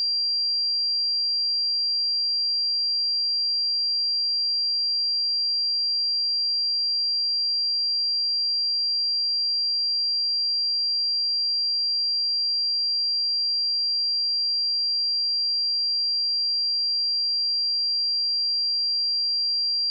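A pure 4744 Hz sine-wave test tone, one steady high-pitched note held at an unchanging level.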